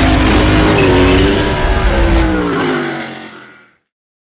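Race car engine at high revs, its pitch wavering and then sliding downward, fading out near the end.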